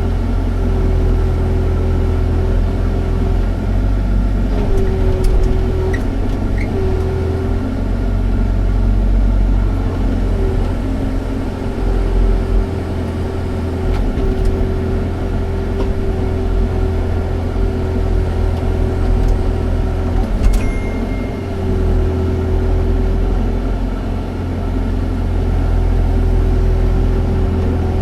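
Excavator's diesel engine running steadily under a deep rumble, with a steady whine that drops out briefly now and then. A sharp click about three-quarters of the way through.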